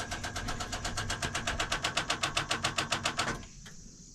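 Excavator's starter clicking rapidly and evenly, about ten clicks a second, while the engine does not turn over; the clicking stops a little over three seconds in. Rapid starter-solenoid chatter like this is the typical sign of too little battery voltage, and the owner suspects the batteries are bad.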